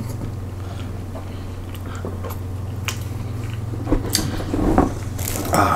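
People eating at close range: chewing and biting, with a few faint clicks of forks on food containers and a louder crunchy noise near the end, over a steady low hum.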